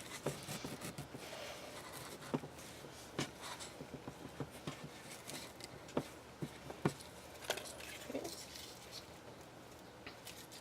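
Hands handling ribbon, lace and a wooden stick: soft rustling with scattered small taps and clicks.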